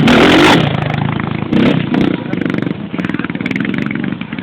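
Motorcycle engine running and revving, loudest in the first half second and then rising and falling in pitch.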